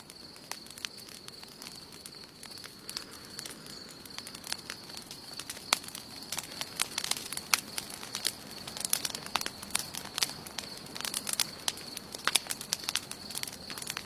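Wood campfire crackling, with irregular sharp pops and snaps that come thicker and louder after about five seconds. A steady high-pitched tone runs underneath.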